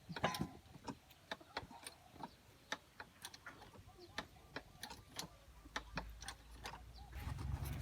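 Many light, irregular clicks and taps, a few to several a second, with a low engine-like hum coming in near the end.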